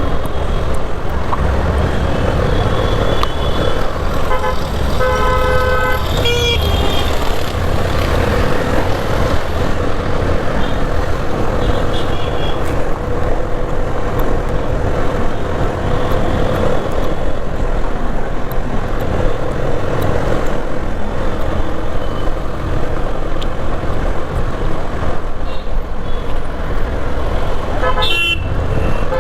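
Motorcycle riding slowly in city traffic: a steady engine and road rumble, with vehicle horns honking around five to six seconds in and again near the end.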